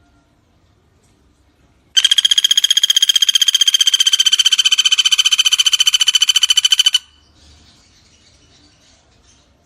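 Pelatuk bawang woodpecker giving one long, rapid rattling trill at a steady pitch, starting about two seconds in and lasting about five seconds. Faint chirps of other birds or insects are heard before and after it.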